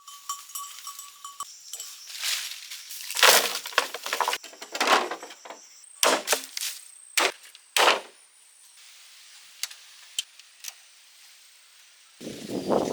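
Bamboo being worked: a series of cracks, knocks and splintering strokes, then a few sharp clicks. A goat starts to bleat near the end.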